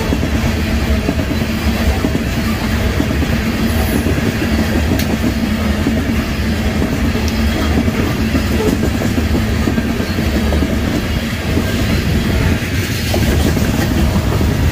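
Freight train passing, its cars rolling steadily over the rails with a continuous loud rumble.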